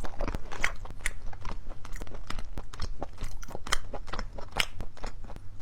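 A person chewing and biting crunchy food: a quick, irregular run of crisp crunches and wet mouth clicks.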